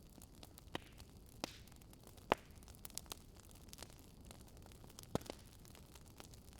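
Faint wood fire crackling: irregular sharp pops and snaps, the loudest a little over two seconds in, over a low steady hiss.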